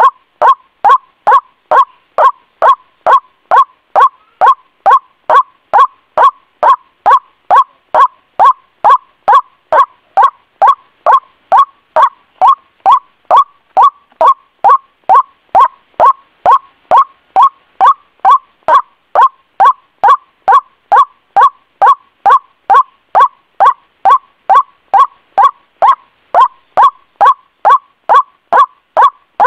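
White-breasted waterhen (ruak-ruak) lure call: short, loud call notes repeating evenly about twice a second without a break.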